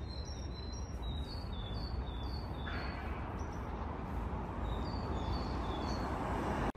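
A small bird singing series of short high chirps, about two a second, in two bouts, over a steady low outdoor rumble.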